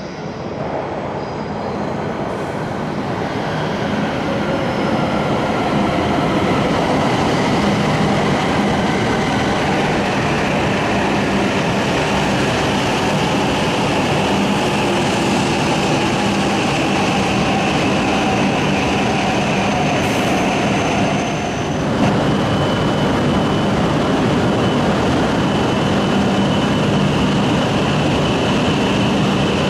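Jōetsu Shinkansen bullet train passing through the station at full speed without stopping. A loud rushing roar of air and rails builds over the first few seconds and then holds, with steady whining tones over it. About two-thirds of the way in it drops briefly, then comes back suddenly louder.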